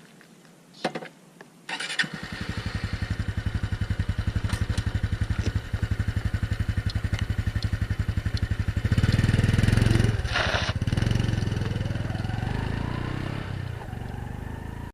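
A small single-cylinder four-stroke motorcycle engine starts after a couple of clicks about two seconds in, then idles with an even putter. Around nine seconds it gets louder, then pulls away with a rising whine that fades as the bike rides off.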